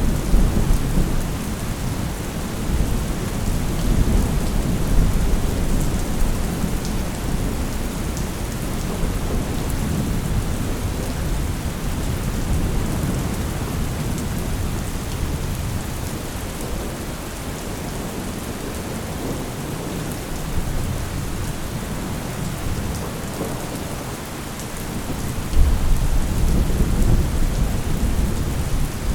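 Thunderstorm: steady rain with rolling thunder, a rumble dying away at the start and another breaking out about 25 seconds in.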